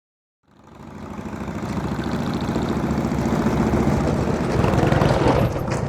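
A train rumbling with a fast, even chugging pulse, fading in from silence about half a second in and growing louder over the next two seconds.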